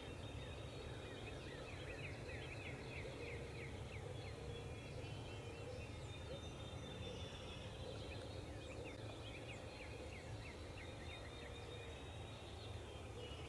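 Quiet outdoor ambience: a steady low rumble with several quick series of short, high bird calls.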